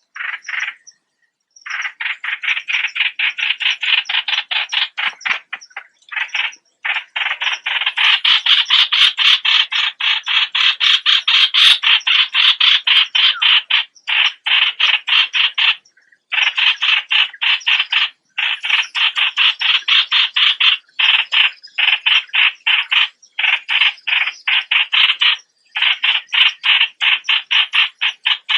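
A bird, the one called 'nok plot suan' in Thai, calling loudly in long trains of rapid repeated notes, several a second, broken by brief pauses about a second in, near six seconds, and several times in the second half.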